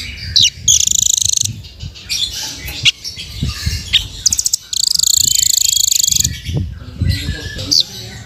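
Velvet-fronted nuthatch calling: sharp, high single chips and two fast, buzzy trills about a second long, over a low rumble.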